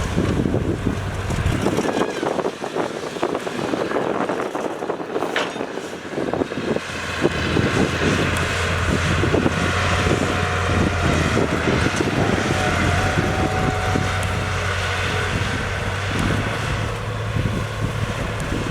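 Diesel engine of heavy earthmoving machinery running, with a steady low hum that grows stronger about six seconds in, over a noisy clatter.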